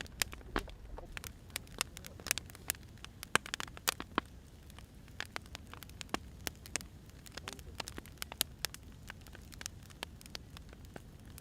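Burning firewood crackling, with frequent irregular sharp pops over a low steady hiss.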